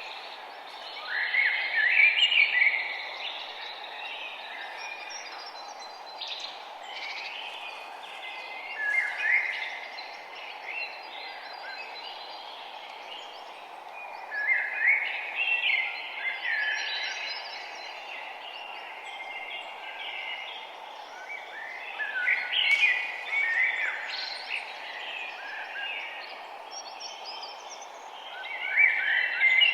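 Wild songbirds singing in repeated bursts of chirping phrases a few seconds apart, over a steady background hiss.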